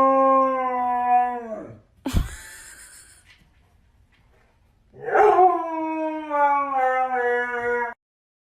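A pet dog howling: two long, drawn-out howls, the second one sinking slightly in pitch as it goes. Between them, about two seconds in, there is a single thump.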